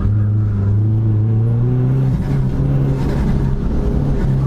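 Dodge Neon SRT-4's turbocharged 2.4-litre four-cylinder engine running hard under load during an autocross run. The engine note steps up in pitch a little past halfway through.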